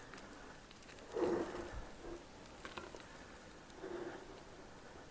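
Faint, soft sounds of a creamy peanut butter filling being spooned and spread into a pie crust, with a couple of light utensil ticks.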